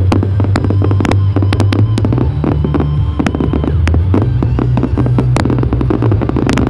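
Fireworks going off in rapid, irregular cracks and bangs over loud music with a heavy, steady bass line.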